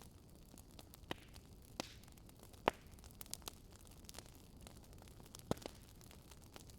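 Wood fire crackling: scattered sharp pops and snaps over a faint steady hiss, the loudest pop just under three seconds in and another about five and a half seconds in.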